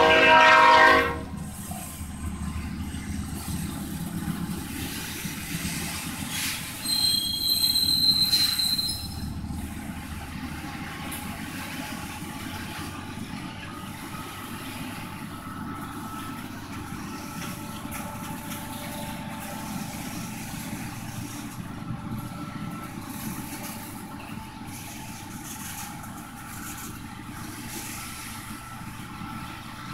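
Freight train of autorack cars and boxcars rolling past: a train horn cuts off about a second in, then the steady rumble and clatter of passing cars, with a brief high-pitched wheel squeal about seven seconds in and fainter squeals later on.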